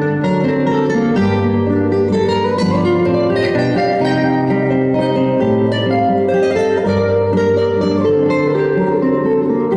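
Instrumental interlude of a romance: plucked-string accompaniment with many quick notes over long held bass notes, with no singing.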